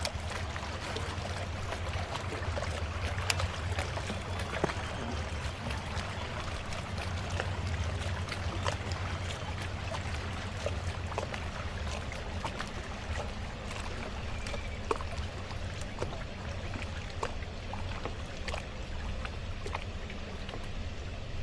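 Water washing and splashing around a kayak on a flowing river, with many small drips and ticks over a steady low rumble.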